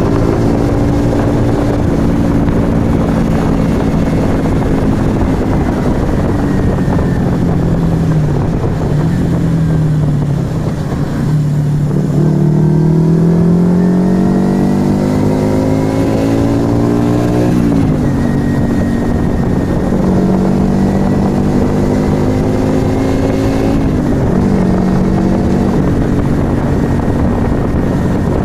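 Yamaha XV125 Virago's small V-twin engine running through a Turbo Kit aftermarket exhaust while riding, over wind and road noise. The revs hold steady, ease off, then climb steadily for several seconds before a sharp drop at an upshift, with another drop and pickup near the end.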